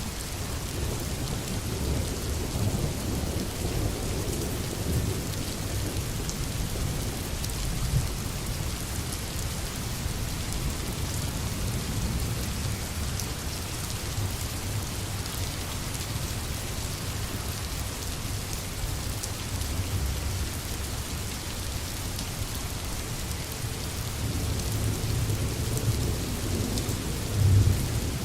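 Steady rain falling on a tin roof, with low rolling thunder underneath that builds near the end to a loud rumble.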